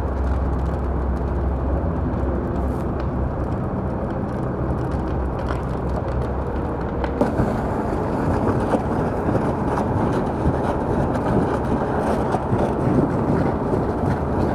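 Large fire burning in a mock house or garage: a steady rushing noise with scattered crackles.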